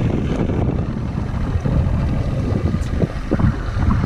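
Strong wind buffeting the microphone, a loud, continuous low rumble.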